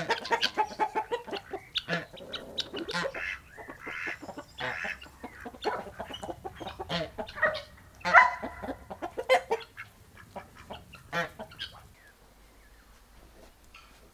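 Chickens clucking, many short calls in quick succession, thinning out and dying down about ten seconds in.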